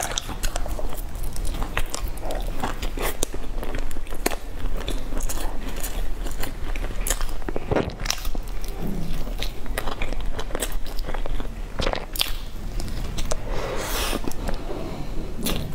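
Close-miked biting and chewing of soft bread squares topped with meat floss and seaweed: wet mouth sounds with many small crackles and clicks.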